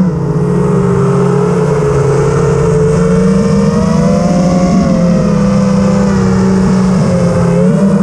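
Quadcopter drone's electric motors and propellers whining. The pitch drops sharply at the start, then holds fairly steady with small rises and falls as the throttle changes, dipping and rising again near the end.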